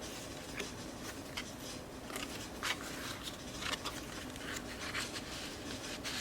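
Soft, intermittent rustles and light taps of paper pages and tags being handled and turned in a handmade accordion junk journal.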